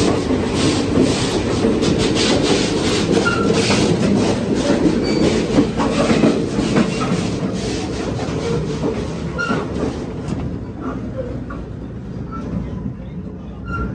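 Running passenger train's wheels on the track, clattering loudly in the vestibule between two cars, then dropping off about ten seconds in once inside the next car.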